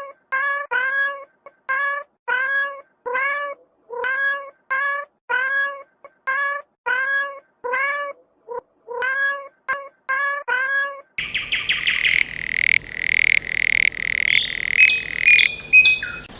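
A cat meowing over and over in short, arched calls, about two a second. About eleven seconds in it cuts to a different, noisier sound with a steady high tone and scattered clicks.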